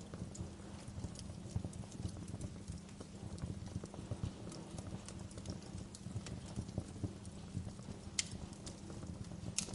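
Wood fire crackling in a fireplace: a steady low rumble of flames with irregular small pops and snaps, and two sharper pops near the end.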